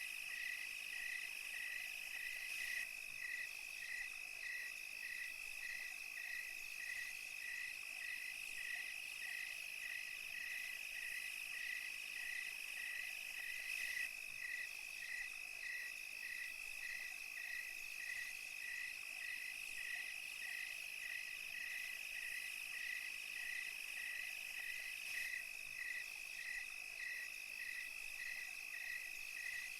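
Night insect chorus of crickets and cicadas: a steady high-pitched trill, with one cricket chirping evenly about twice a second over it.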